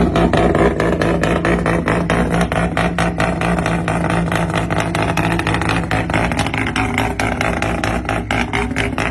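Car engine running at a steady idle, loud and even, with a rapid regular pulsing throughout.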